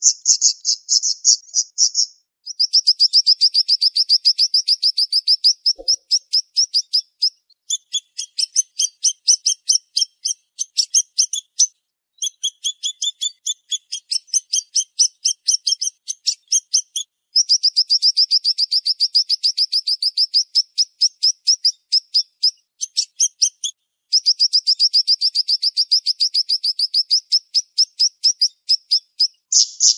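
A siri-siri songbird singing fast, tightly packed runs of sharp high notes, many a second, in phrases several seconds long broken by short pauses.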